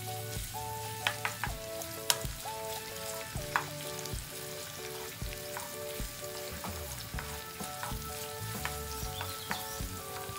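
Sliced spring onion sizzling in hot oil in a non-stick wok, stirred with a wooden spoon that clicks against the pan a few times in the first few seconds. Background music with a melody and a soft beat plays underneath.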